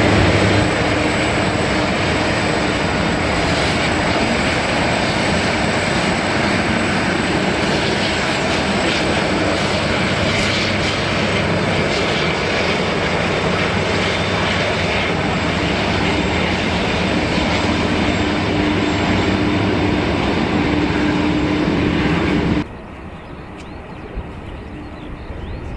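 Airliner's engines, loud and steady, with a low tone and a thin high whine over the noise. The sound cuts off suddenly near the end, leaving a much quieter outdoor background.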